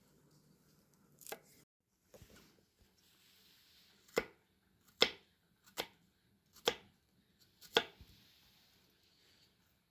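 A knife chopping on a board: five sharp chops roughly a second apart, after a lighter knock about a second in.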